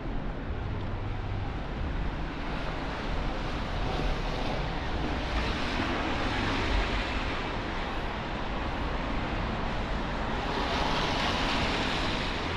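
City traffic on a rain-wet street: a steady low rumble, with the tyre hiss of passing cars swelling up and fading twice.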